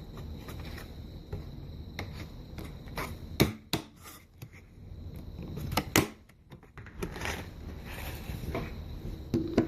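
Handheld stapler clicking shut on folded paper lantern pieces, a few sharp snaps with the loudest about three and a half and six seconds in, over light paper rustling as the pieces are handled.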